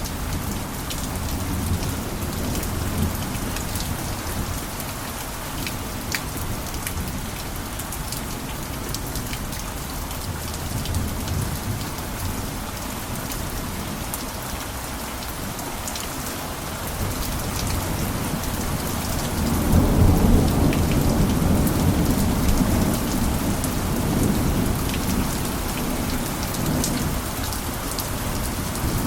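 Steady rain falling on a roof, with scattered sharp drips. A low rumble of thunder swells about two-thirds of the way through and slowly dies away.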